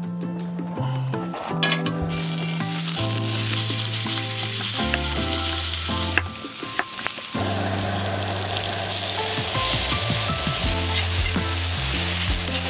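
Food frying in a pan with a steady sizzle that thickens about a second and a half in and grows louder past the middle, under background music with a slow stepping bass line.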